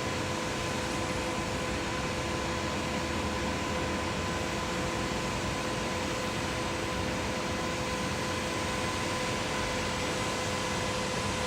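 Machinery running steadily with a constant hum and a hiss of noise, without change or any knocking rhythm.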